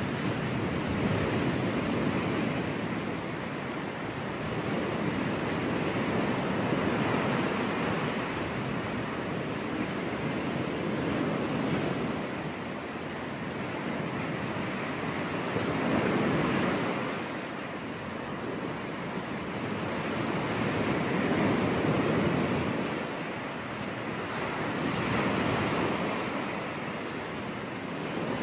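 Ocean surf: waves breaking and washing up the beach in a continuous rush, swelling and easing every four to five seconds.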